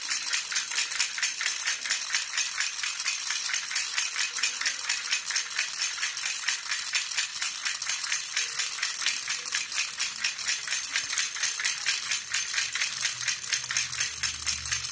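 Jhunjhuna, a baby rattle, shaken steadily and rapidly, giving an even, fast, bright rattling.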